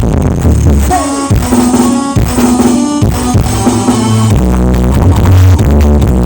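Loud electronic dance music played through a large carnival sound system at a sound check. The heavy bass drops out about a second in, leaving the higher parts and a drum beat, and comes back hard a little past the middle.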